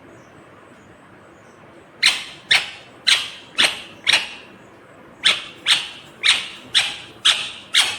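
Ringneck parakeet giving a series of loud, harsh, short calls, about two a second, in two runs with a short pause between them.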